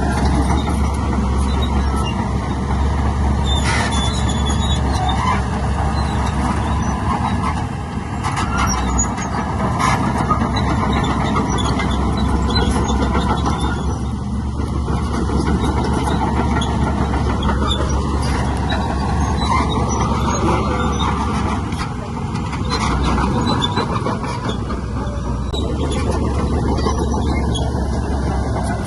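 Heavy diesel earthmoving machinery running steadily under load, a deep continuous rumble with scattered knocks and squeaks on top.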